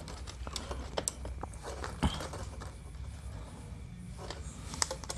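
Scattered small clicks and taps of hands working with wires and a soldering iron on an amplifier's knob potentiometers, the sharpest about two seconds in, over a low steady hum.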